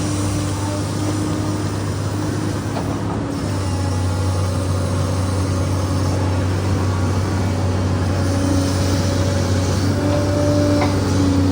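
SANY excavator's diesel engine running steadily under digging load, with a low hum and a fainter whine above it. The low note grows stronger about three seconds in.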